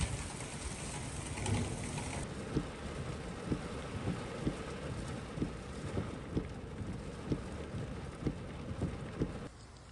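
Torrential rain pouring down in a steady hiss. From about two seconds in it is joined by short, soft low thuds about twice a second. The sound drops away suddenly near the end.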